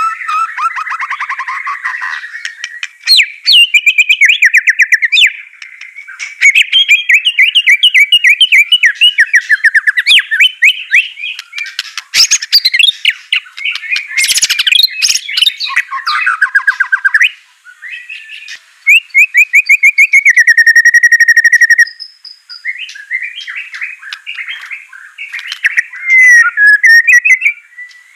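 White-rumped shama (murai batu) singing a long, fast, varied song of rapid trills, rattling notes and whistled glides, broken by a couple of short pauses.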